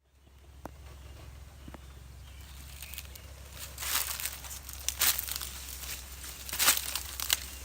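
Dry material rustling and crackling in short bursts, growing more frequent after about four seconds, over a steady low hum.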